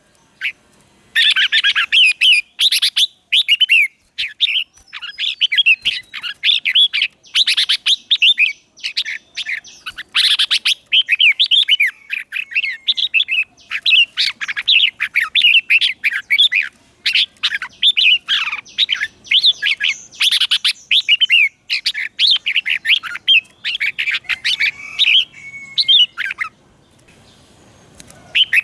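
Red-whiskered bulbul singing: rapid, busy runs of short, bright whistled notes, one phrase after another with brief gaps, pausing about two seconds before the end.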